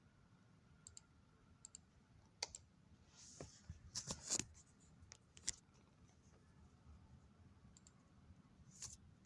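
Faint, scattered clicks and small knocks over a quiet background. The loudest cluster comes about four seconds in, just after a brief hiss.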